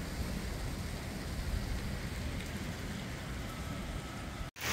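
Steady rain falling: an even hiss with a low rumble beneath it. It cuts off suddenly near the end.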